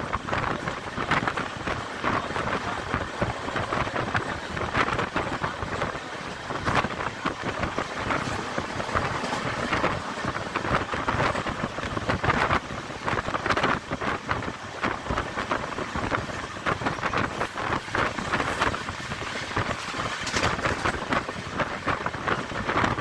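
Train running at speed, heard from inside the coach: a steady rattle and rumble of the carriage and wheels on the rails, with wind on the microphone.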